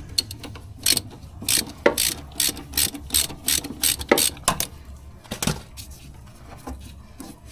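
Hand ratchet wrench clicking as it is worked back and forth, a sharp click every third to half second. The clicks stop about five and a half seconds in.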